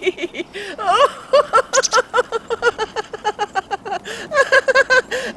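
A woman giggling and laughing with delight: a long run of quick, breathy, pitched bursts of laughter.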